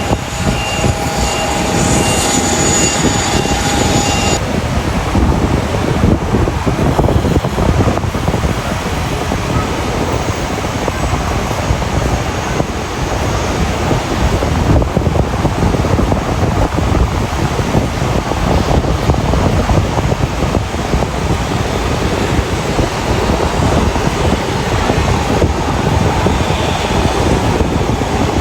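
Jet airliner engines on departure. For the first four seconds there is a steady engine whine with several high tones. It cuts to the steady rumble of an Airbus A350-900's Rolls-Royce Trent XWB engines running at high power.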